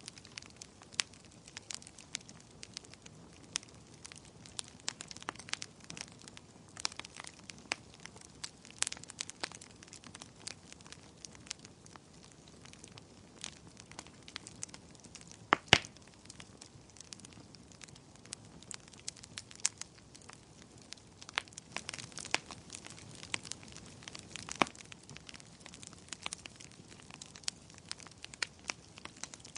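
Wood fire burning in a fireplace, crackling with irregular sharp pops over a soft steady hiss; one louder pop about halfway through.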